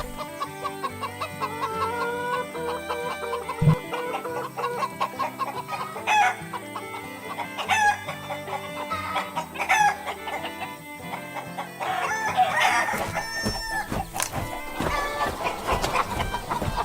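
Chickens clucking, with rooster crowing, over background music.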